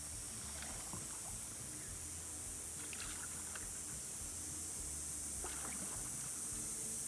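Water around a paddleboard on a shallow river: a steady rushing hiss, with a few small splashes about one, three and five and a half seconds in.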